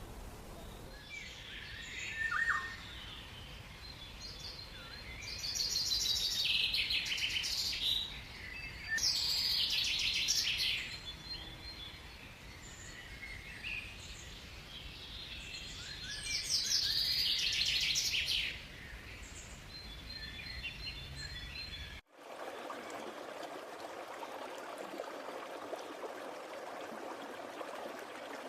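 Birds calling: soft chirps with three loud, rapid trills of about two seconds each. About three-quarters of the way in, this cuts abruptly to the steady rush of a stream.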